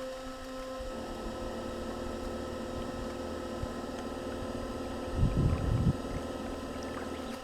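Radio-controlled boat's motor running under way, a steady hum with noise over it that changes pitch about a second in. A cluster of loud low thumps comes about five seconds in.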